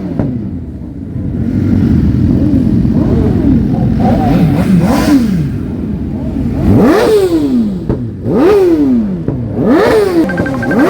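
Motorcycle engine revved in repeated throttle blips, the pitch climbing sharply and falling back each time, with bigger revs about every second and a half in the second half.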